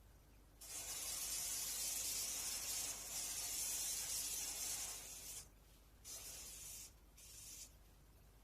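Aerosol cleaning spray hissing onto an air conditioner: one long burst of about five seconds, then two short bursts.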